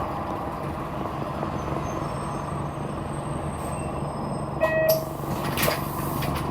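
City bus engine running steadily, heard inside the passenger cabin. About two-thirds of the way in there is a short electronic beep, then brief bursts of air hiss.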